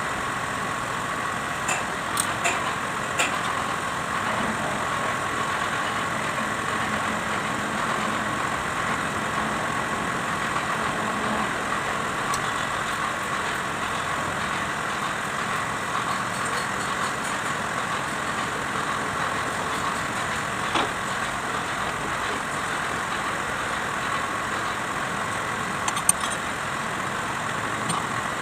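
Kubota D905 three-cylinder diesel engine running steadily, with a few light clicks in the first few seconds and a single sharp knock near the end.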